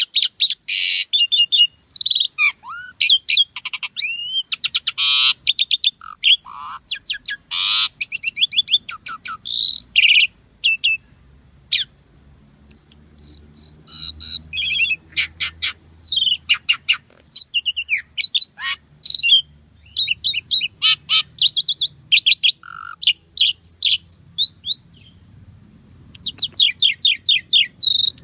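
Asian pied starling (jalak suren) singing a fast, varied song of whistles, chattering clicks and harsh buzzy notes, with a short lull near the middle.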